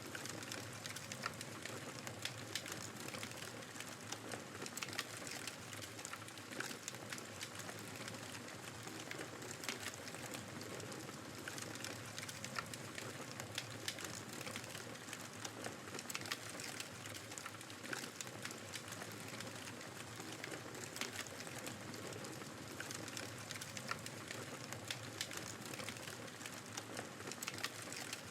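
Fireplace crackling, with frequent small pops and snaps over a steady rush of blizzard wind.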